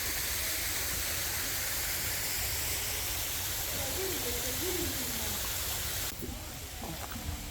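Steady rushing of a waterfall, which cuts off abruptly about six seconds in, leaving a quieter background with a few light clicks.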